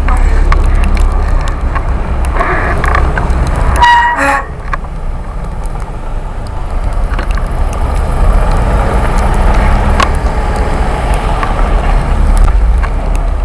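Wind buffeting the microphone and tyre noise from an electric bike riding fast through snow. About four seconds in comes one short horn toot.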